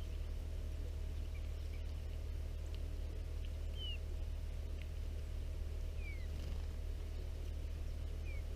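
Wild birds at a feeder giving short, downward-slurred chirps, one every couple of seconds, over a steady low hum.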